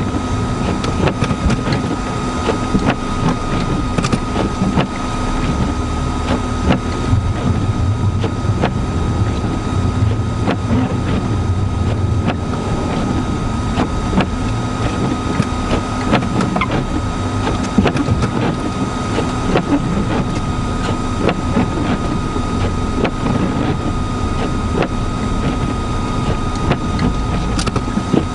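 Vehicle driving through a blizzard, heard from inside: a steady low rumble of engine, tyres and wind, with a constant faint whine and frequent small ticks.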